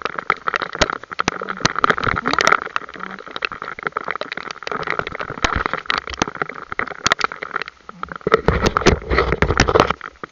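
Storm wind gusting over the microphone in uneven surges, with a dense, irregular clatter of sharp clicks through it.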